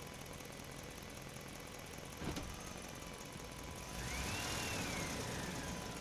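A steady engine-like running sound with a sharp click a little over two seconds in. From about four seconds it grows louder, with a whine that rises and then falls.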